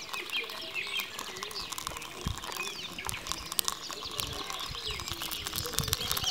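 Birds chirping, with a scatter of small clicks and crackles that grow denser toward the end.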